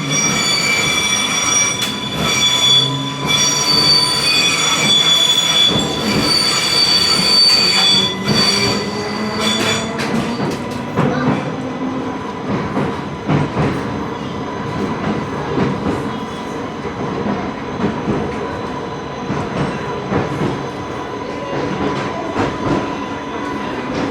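Island Line Class 484 train running on the track, its wheels squealing loudly with a shrill held tone for roughly the first ten seconds. The squeal then gives way to a steadier rumble of the train with scattered rail clicks.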